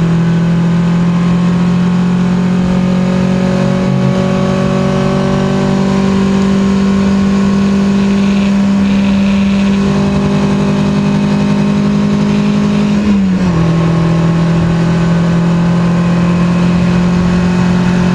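In-cabin sound of a 1972 BMW 2002 Tii's four-cylinder engine, rebuilt with twin Weber 45 DCOE carburettors and a 304 cam, pulling hard under acceleration. The note climbs steadily and drops briefly at a gear change about 13 seconds in.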